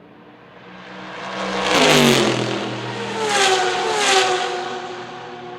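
GT race cars passing at full throttle on a street circuit. One goes by loudly about two seconds in, its engine note dropping in pitch as it passes, then two more loud peaks follow close together before the sound fades.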